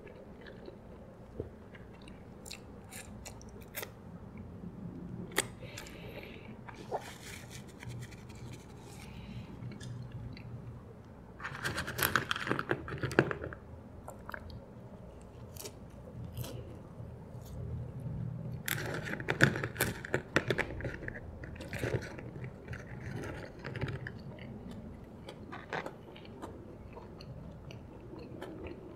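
Close-miked chewing and mouth sounds of a person eating McDonald's French fries, with scattered soft clicks and two louder, noisier stretches about 12 and 20 seconds in.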